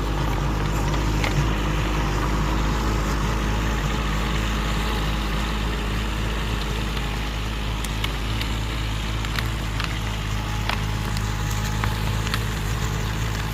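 Excavator's diesel engine running steadily under load, with scattered sharp clicks and snaps over it.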